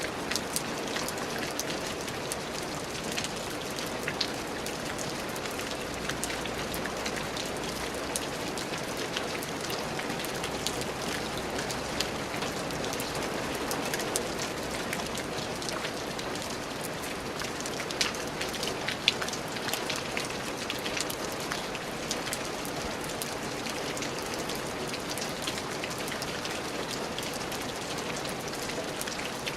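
Steady rain falling on a surface, a constant hiss speckled with the ticks of single drops.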